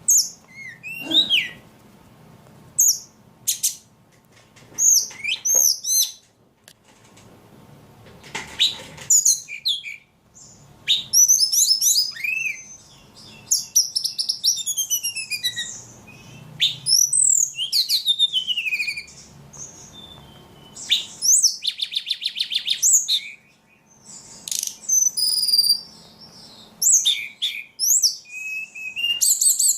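A caged ledekan songbird singing in full voice: a varied, busy song of sharp chirps, sliding whistles and rapid trills in phrases with short pauses, including a buzzy trill about two-thirds of the way in.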